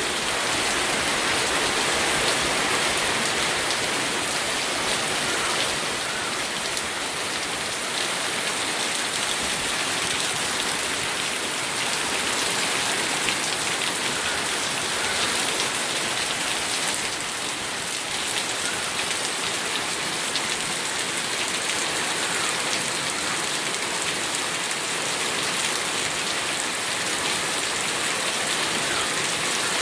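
Steady rain falling and pattering on surfaces, an even hiss of many fine drops with no let-up.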